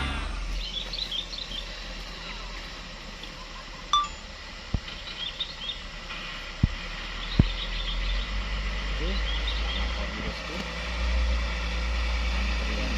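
Truck diesel engine running low and steady in the background, swelling about eleven seconds in, with a few sharp clicks in the middle.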